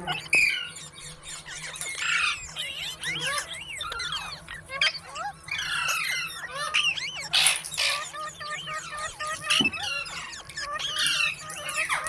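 Pet parakeets chattering and squawking, many short rising and falling calls overlapping one another, with one harsh screech about seven and a half seconds in.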